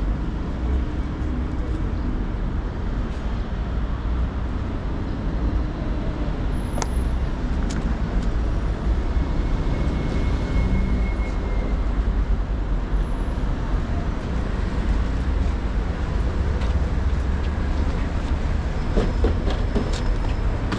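Steady low rumble of a public-transport vehicle in motion, heard from inside, with a few short clicks and knocks.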